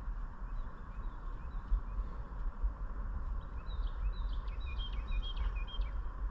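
Small birds chirping in short, quick calls, a few at first and then a denser run of chirps over the second half, over a steady low rumble.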